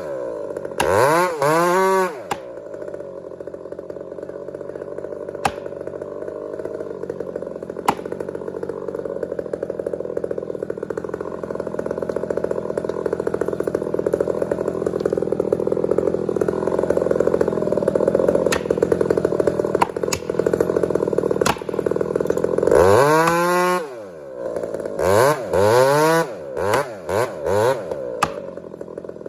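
Chainsaw revved a couple of times, then held steady at high revs for about twenty seconds as it cuts into a big tree, then revved up and down several times near the end.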